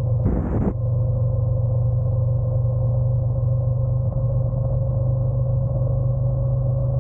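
Honda NC750X parallel-twin engine running steadily at low revs with no wind noise, as when idling. A short rush of wind noise cuts off under a second in.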